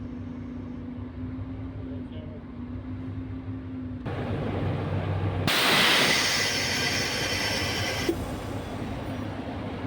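Hyundai Aero City bus's diesel engine running with a steady hum. About four seconds in the sound grows fuller, and a second later compressed air hisses loudly out of the bus's air system for about two and a half seconds before easing off.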